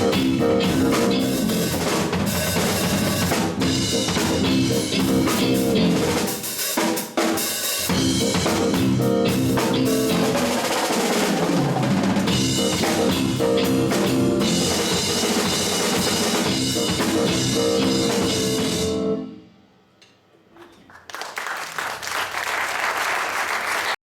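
A drum kit played solo in jazz-rock style, with dense bass drum, snare and rimshot strokes that stop abruptly. After a brief hush, an even wash of audience applause rises.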